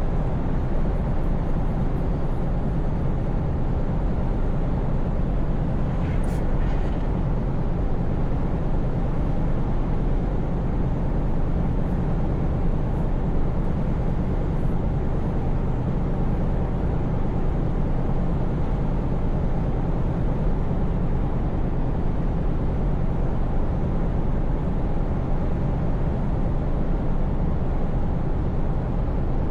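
Scania V8 truck engine running steadily at cruise, a constant low hum with road and tyre noise.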